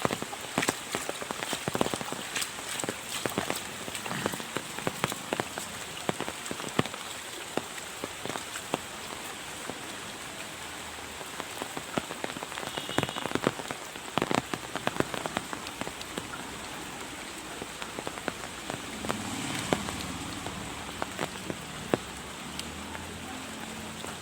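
Rain falling steadily, with frequent sharp impacts of drops landing close by.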